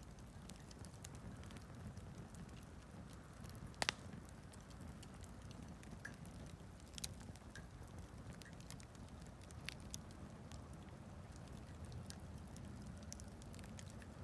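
Wood campfire burning: scattered crackles and sharp pops over a low steady rush, with the loudest pop about four seconds in.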